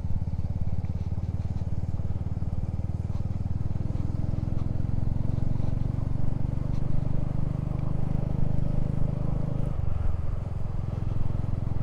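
Motorcycle engine running under way, its note climbing slowly as it accelerates and then falling suddenly near the end as the throttle is shut off.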